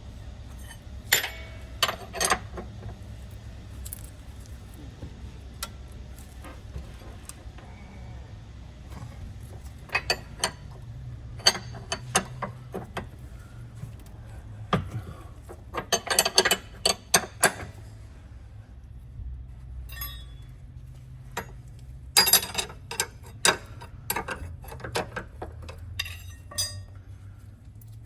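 Metal hand tools clinking and clicking against car suspension parts in irregular bursts, over a steady low hum.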